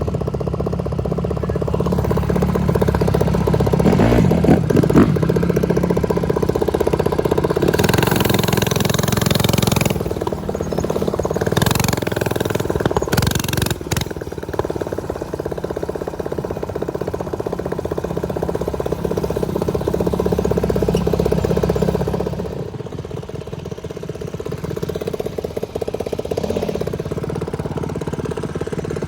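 Small motorcycle engine running steadily under way, with gusts of wind rushing over the microphone at times, and the engine note easing off about three quarters of the way through.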